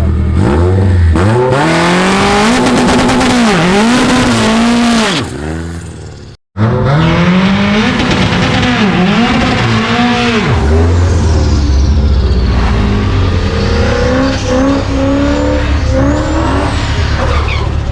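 Race car engine revving hard, its pitch climbing and dropping again and again. The sound cuts out abruptly for a moment near the middle, then the revving resumes and settles into a steadier, lower engine note.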